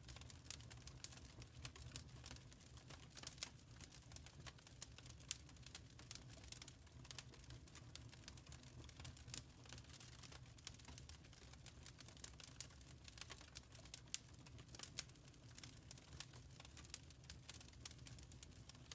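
Wood fire crackling softly in a fireplace: irregular small pops and snaps over a low steady rumble.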